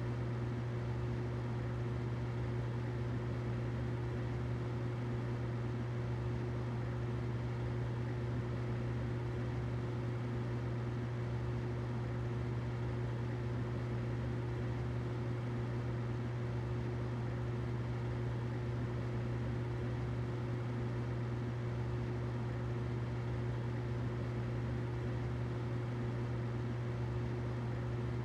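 Humidifier running steadily: a constant low hum under an even hiss, unchanging throughout.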